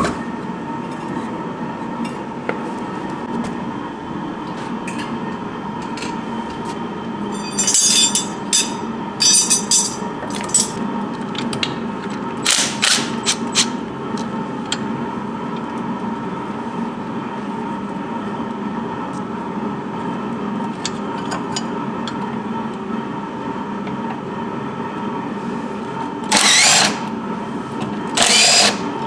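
Workshop tools at work on a car's rusted rear suspension: a steady hum with a faint steady tone, broken by short bursts of rattling tool noise about a third of the way in and again a little later, then two loud hissing bursts near the end.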